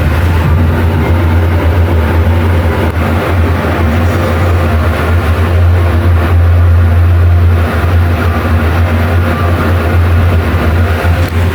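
Mitsubishi elevator car's ventilation fan running loudly, a steady low hum with little change; it is the noisy fan of this elevator.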